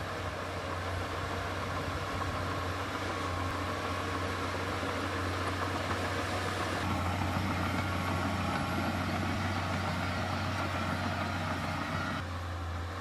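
Heavy earthmoving machine's diesel engine running steadily, a deep low drone with a mid-range rumble over it that shifts slightly about seven seconds in and again near the end.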